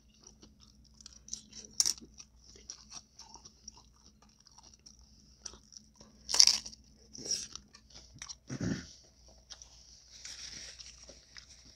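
Close-miked eating of tacos: wet chewing with many small mouth clicks and several louder crunching bites, the loudest about six seconds in.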